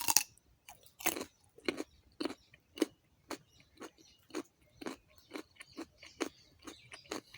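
Person chewing a bite of fresh raw carrot: a loud crisp crunch at the start, then steady crunchy chewing at about two crunches a second.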